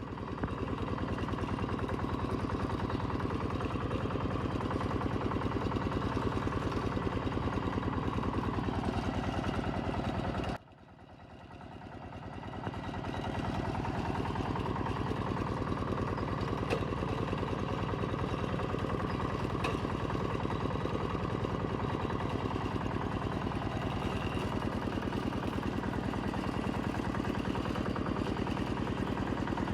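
Kubota M7040 tractor's four-cylinder diesel engine running steadily. About a third of the way through it drops out abruptly, then swells back over a few seconds.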